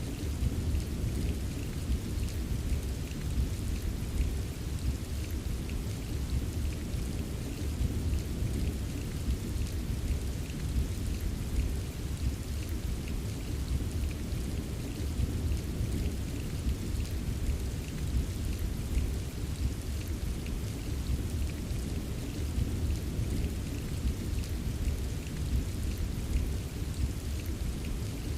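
Steady rain with many small drop ticks, over a continuous low rumble of rolling thunder.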